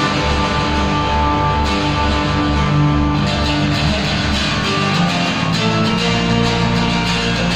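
Band music led by guitar over a low bass line that moves between sustained notes, playing loud and steady throughout.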